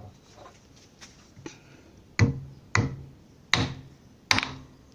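Hammer striking a golf ball on a hard surface: two light taps, then four sharp blows a little under a second apart in the second half, each with a short dull ring. The ball does not break.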